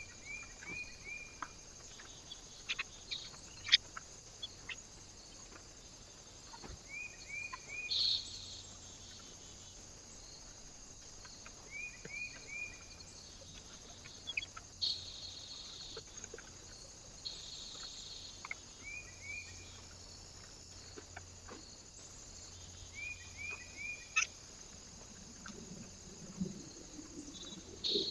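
A bird repeating a short call of three or four quick notes, about every five seconds, with scattered sharp clicks and taps between the calls.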